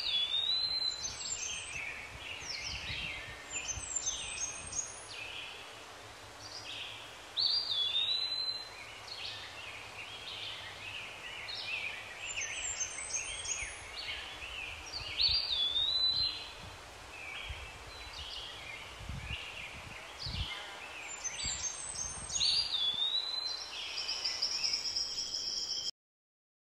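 Wild birds calling and chattering, several voices overlapping, with one high swooping whistled phrase repeating about every seven to eight seconds. Occasional low rumbles sit underneath, and the sound cuts off abruptly near the end.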